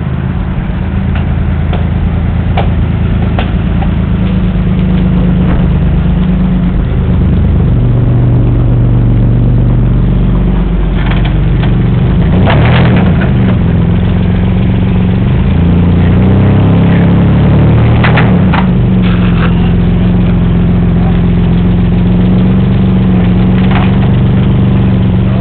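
Lifted Toyota pickup's 22RE four-cylinder engine revving up and down under load as the truck climbs onto and crushes another truck. Sharp bangs and cracks of metal cut through it, the loudest a cluster about halfway through and another about three-quarters through.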